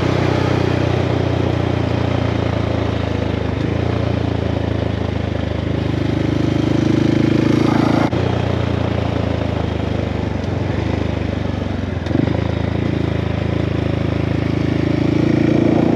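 Motorcycle engine running steadily at road speed under wind noise, its note shifting a few times.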